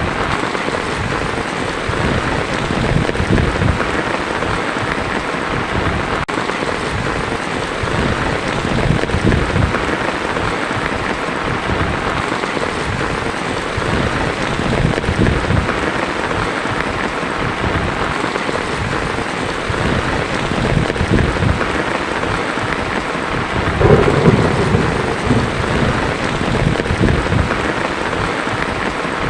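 Heavy rain drumming on a tin roof, with thunder rumbling underneath; a louder roll of thunder comes near the end.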